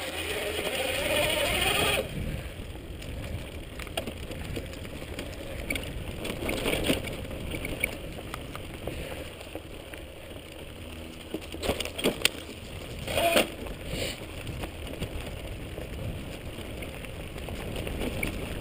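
Electric mountain bike riding along a dirt trail: a steady low rumble with scattered knocks and rattles from bumps, bunched together around twelve to fourteen seconds in.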